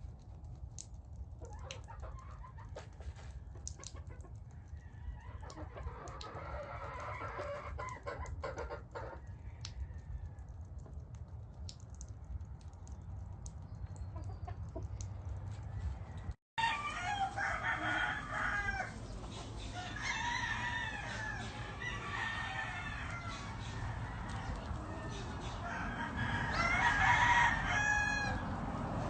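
Sweater McGinnis Blueface game roosters crowing and clucking, faint at first and louder after a brief dropout past the middle, with the loudest crow near the end.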